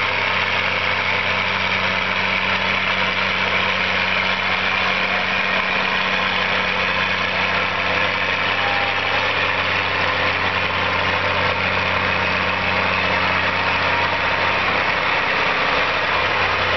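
Heavy vehicle engine idling steadily, an even low hum with no revving.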